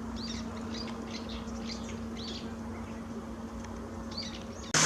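Small birds chirping, a series of short calls over a low steady hum. Right at the end it cuts suddenly to a loud, steady rushing noise.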